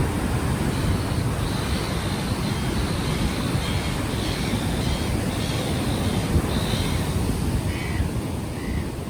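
Ocean waves washing on the shore, overlaid by wind buffeting an unshielded microphone, a steady low rumble throughout.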